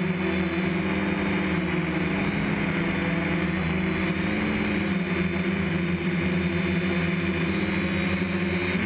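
DJI F550 hexacopter's six electric motors and propellers whirring steadily in flight, their pitch wavering slightly as the motor speed changes.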